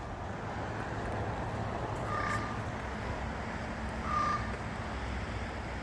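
A crow cawing twice, about two seconds apart, over a steady low hum.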